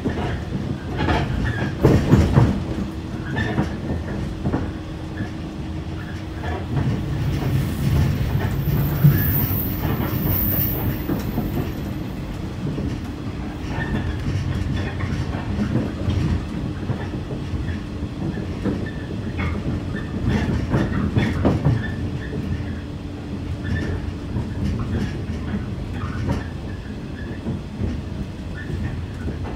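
Electric local train running, heard from inside the carriage: a continuous rumble with wheels clacking over rail joints and a steady low hum.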